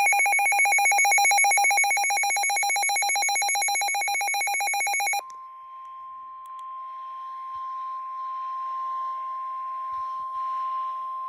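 Weather radio alert tones: for about five seconds a loud, rapidly pulsing electronic tone with a ringing, bell-like quality, then an abrupt switch to a single steady tone near 1 kHz, the weather radio warning alarm tone that comes before a spoken warning.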